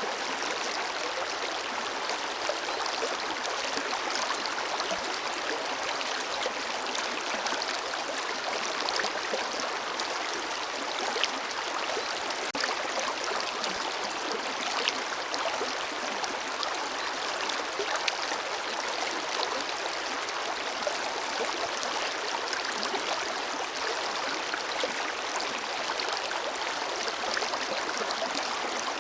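Forest river flowing over rocks: a steady rushing wash of water with small splashes and gurgles scattered through it.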